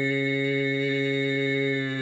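Healing-sound toning: a man's voice holding one long, steady low note in a chant-like drone.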